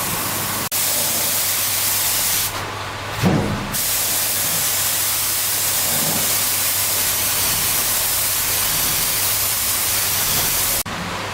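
Steady hiss of a high-pressure spray over a low, even hum. It pauses briefly about two and a half seconds in, with a short low thump during the pause, then runs on and cuts off near the end.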